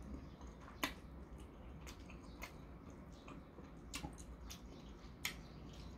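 Faint chewing and wet mouth sounds of someone eating, with several soft clicks scattered through.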